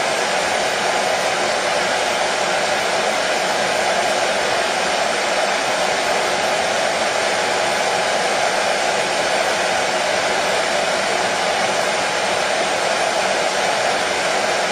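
Hair dryer running at one constant setting: a steady, unbroken rush of blown air with the motor's hum, strongest in the middle range.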